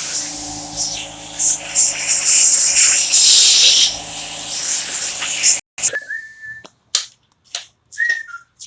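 Big compressor running, a steady hum under loud hissing air, which cuts off abruptly about five and a half seconds in. After that there are a few clicks and short whistled notes.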